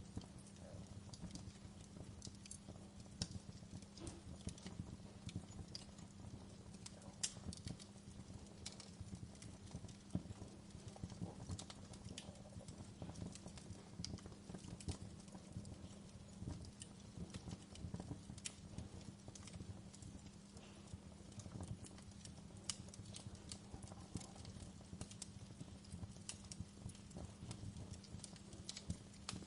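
Wood log fire crackling in a fireplace: quiet, irregular sharp pops and snaps scattered throughout, over a low steady hum.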